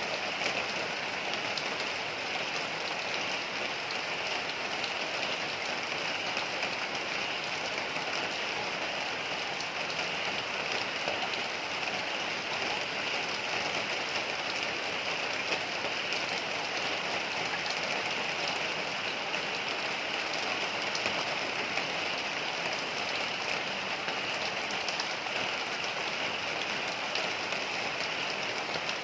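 Heavy rain falling steadily, an even hiss of many drops pattering on surfaces.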